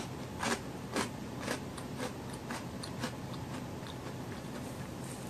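Close-miked crunching and chewing of a honey-lemon Koala's March biscuit: crisp crunches about twice a second that grow fainter, giving way after about three seconds to softer chewing.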